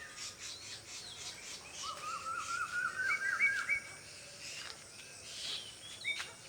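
An unidentified night bird calls a quick run of about eight short rising whistled notes that step upward in pitch, about two seconds in, among scattered chirps from other birds.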